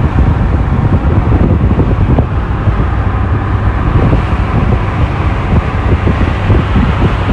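1991 Lotus Elan SE Turbo being driven on the road: its turbocharged Isuzu four-cylinder engine runs steadily under tyre and wind noise.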